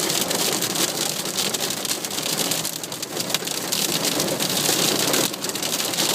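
Heavy downpour drumming on the car's roof and windscreen, heard from inside the car: a dense, steady patter of countless drop impacts.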